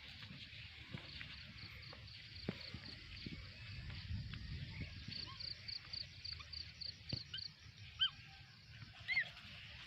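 Birds calling outdoors: a high, even series of short notes, about four a second, for several seconds, then a few short chirps near the end.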